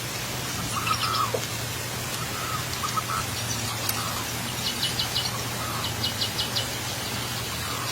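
Birds chirping in short rapid series of high chirps, over a steady low hum.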